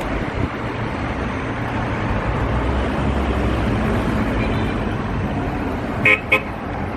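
Car driving through city traffic, a steady road rumble heard from inside the car, with two short car-horn toots in quick succession about six seconds in.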